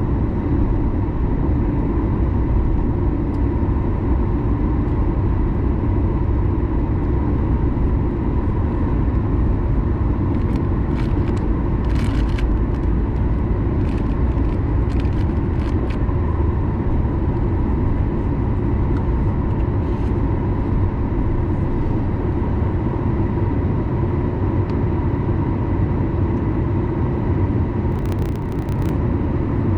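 Boeing 737 MAX 9 cabin noise during the takeoff run: its CFM LEAP-1B engines run steadily at high power, with a steady whine over the rumble. A few short clicks or rattles come around the middle and again near the end.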